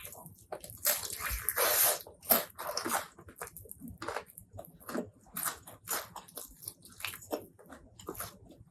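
Close-miked eating sounds: wet chewing and lip smacks in quick, irregular clicks, with a longer wet smear a second and a half to two seconds in.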